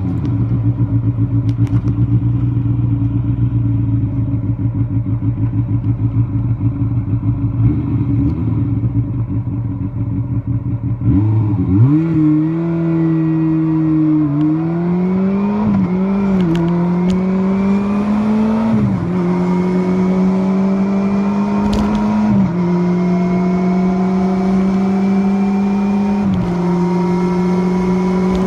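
First-generation Kawasaki Balius's water-cooled 250 cc inline-four running at a steady, low engine speed. About eleven seconds in, it revs up and pulls away. The engine note then climbs slowly in several stretches, each broken by a short dip in pitch as it shifts up a gear.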